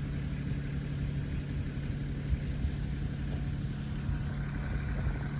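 LS MT225S compact tractor's diesel engine idling steadily, a constant low hum.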